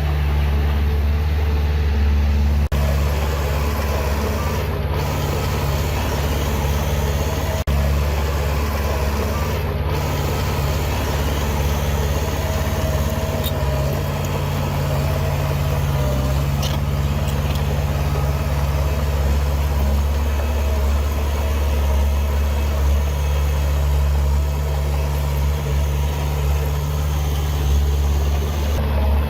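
Heavy diesel construction machinery engine running steadily with a deep, even hum, from a bulldozer or dump truck at work.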